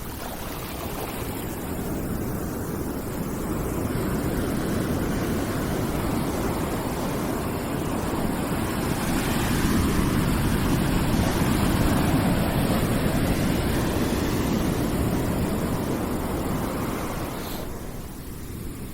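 Ambient background noise: a steady, deep rushing hiss that swells slowly to a peak about halfway through and eases off near the end.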